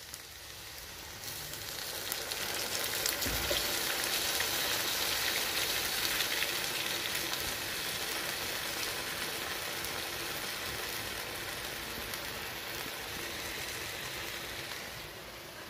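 Sweet potato and mushrooms frying in a pan, sizzling steadily with fine crackles. The sizzle swells over the first few seconds and drops back near the end.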